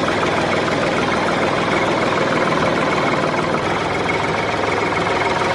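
A mini tractor's motor running steadily with a fast, even chatter.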